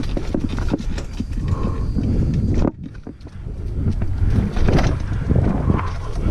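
Mountain bike riding over rough trail: the frame, chain and loose parts rattle with irregular knocks from the bumps over a steady low rumble. The noise drops sharply for a moment a little under halfway through, then picks up again.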